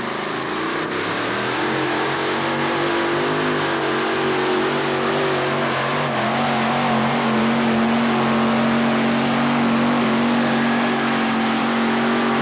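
Modified pulling tractor's engines running hard at high revs during a pull, the pitch climbing a little over the first few seconds and then holding steady.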